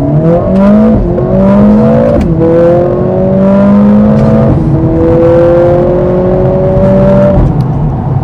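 Mercedes-AMG CLA 45 S's turbocharged 2.0-litre four-cylinder under hard acceleration. The engine note climbs and drops back with each of three quick upshifts, then levels off as the throttle eases near the end.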